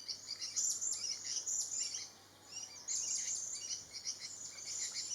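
Several small birds chirping and twittering at once: a dense tangle of short, high, overlapping calls, easing off briefly about two seconds in before picking up again.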